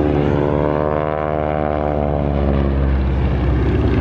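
Stearman biplane's radial engine and propeller droning in flight. The pitch rises a little and then drops away in the second half as the plane passes, with a deeper rumble swelling near the end.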